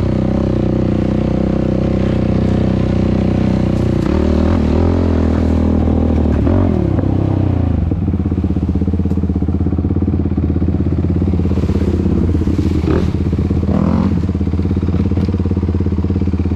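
Yamaha YFZ450R quad's single-cylinder four-stroke engine through a Rossier R5 aftermarket exhaust, running at varying revs; about seven seconds in the revs drop away and it settles to a steady, evenly pulsing idle.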